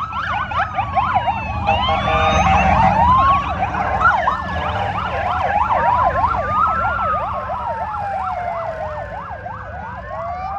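Several emergency-vehicle sirens sounding at once, slow rising-and-falling wails overlapping fast yelps, over a low rumble of engines.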